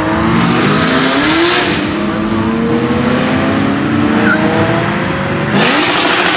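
A car engine accelerating hard, its pitch climbing, dropping back at a gear change, then climbing again. A sudden louder burst of noise comes near the end as a car revs up again.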